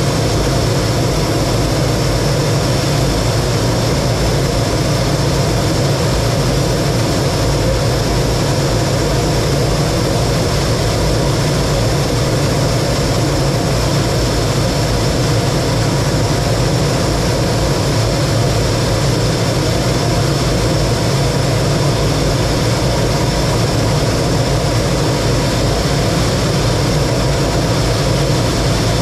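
T-33 jet trainer in flight: steady jet engine and airflow noise, with a faint high whine over it, holding level with no change.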